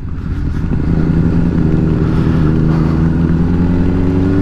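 Motorcycle engine running under way, its pitch rising slowly as the bike gently accelerates, with a steady rush of wind noise.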